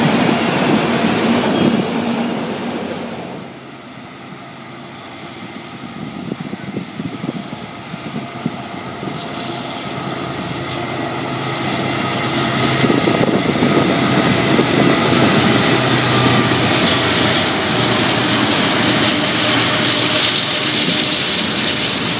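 Freight train rolling past: autorack cars rumbling on the rails for the first few seconds. After a sudden cut, Norfolk Southern diesel locomotives come near with a steady low engine hum and wheel clicks on the rails, growing loud as the train goes by.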